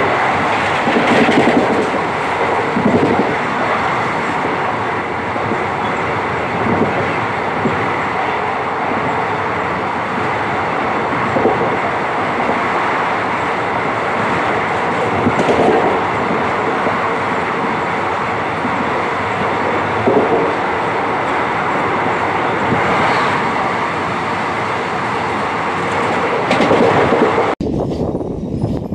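Express passenger train running at speed, heard from an open coach door: a loud steady rush of wheels and wind with recurring clickety-clack. The sound changes abruptly near the end, at a cut.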